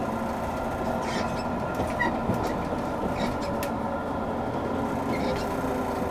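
Steady hum inside a JR Kyushu 883 series electric train car. It holds a few fixed tones and scattered light clicks and knocks, with no rising or falling motor whine.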